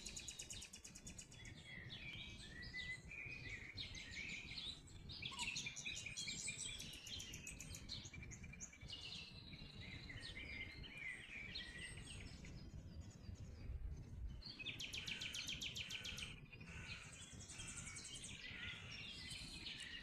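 Songbirds singing, with repeated fast trills and chirps, over a steady low background rumble.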